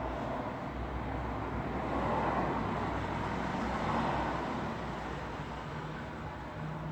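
Road traffic: a steady wash of vehicle and tyre noise with a low engine hum, swelling slightly about two seconds in as a vehicle passes, then easing.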